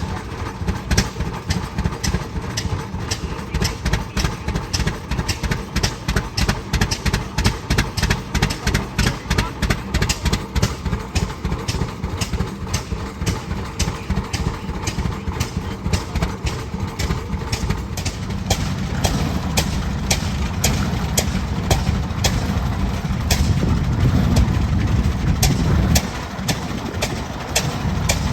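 Antique tractor engine running with a slow, even exhaust beat, about three to four pulses a second. About two-thirds of the way in a deeper, louder rumble builds up under it.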